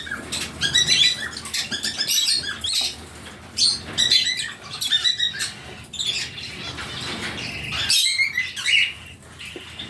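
Pet lovebirds chirping and chattering: clusters of quick, high, squeaky calls repeating every second or so.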